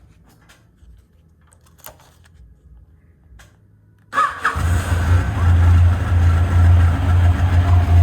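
A few faint clicks, then about four seconds in a brief starter crank as the Yamaha XJR1300's inline-four fires and settles straight into a steady, loud idle through its Yoshimura full exhaust system.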